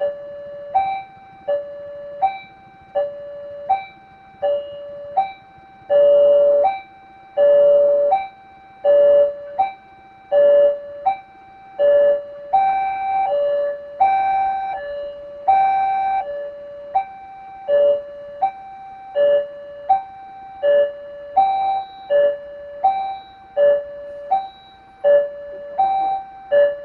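Railway level crossing warning alarm sounding a repeated two-note chime, high then low, about once a second.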